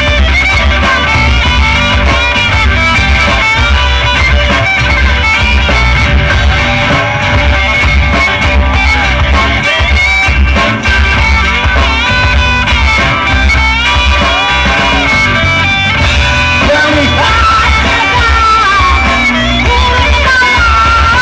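Small rock band playing live, guitar to the fore over a heavy, steady bass, loud and close in the recording.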